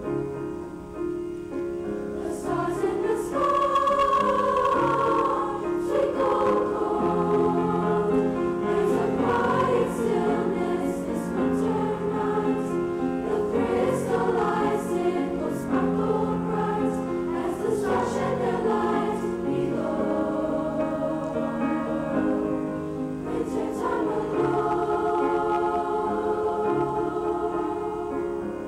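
Junior high school choir singing in sustained chords, the held notes changing every second or two.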